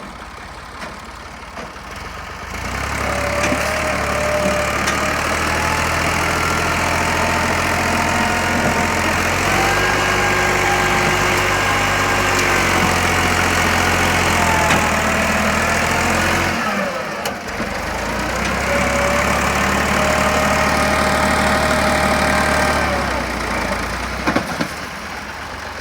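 Tractor engine labouring under heavy load as it tries to pull a fully loaded, stuck trolley. It runs quietly for a couple of seconds, rises sharply to a loud steady pull, dips briefly about two-thirds through, pulls hard again, then eases off near the end.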